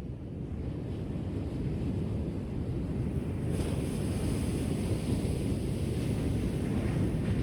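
Ocean waves on a shore: a steady low rumble of surf, with the hiss of a wave washing in building from about halfway through.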